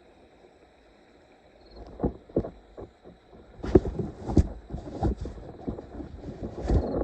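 Faint hiss, then from about two seconds in, irregular thumps and rustling as clothing rubs against the microphone of a camera carried in the angler's pants.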